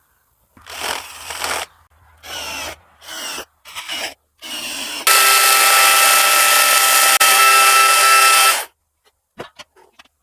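A power tool run in several short bursts with changing speed, then held at full speed for about three and a half seconds with a steady whine, stopping a little before the end.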